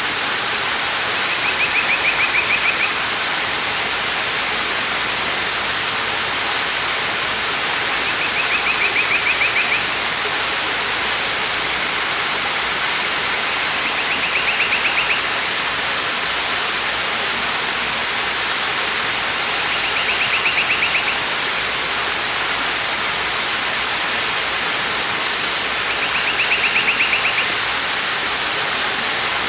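Waterfall rushing steadily, with a bird's short rapid trill repeated about every six seconds, five times in all.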